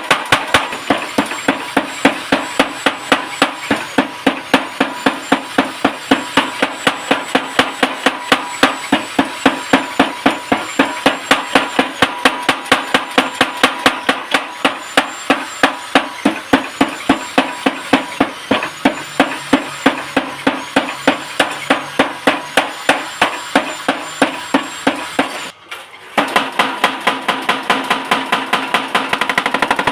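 Hammer blows forging leaf-spring steel on an anvil: a steady, fast run of ringing metal strikes, about three to four a second, with a brief break near the end.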